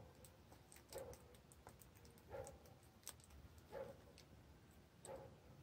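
Very faint mouth sounds of someone chewing dried larvae: four soft, short noises about every second and a half, with a few small sharp clicks.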